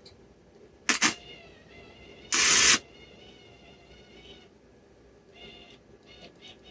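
Short bursts from a wire-feed welder's arc: two brief crackles about a second in, then a louder half-second sizzle of a short tack weld on the exhaust pipe. Faint high wavering tones sound between and after the bursts.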